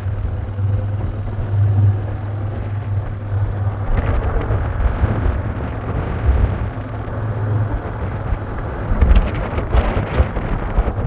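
Wind buffeting the microphone: a steady low rumble with uneven gusts, louder for a moment about nine seconds in.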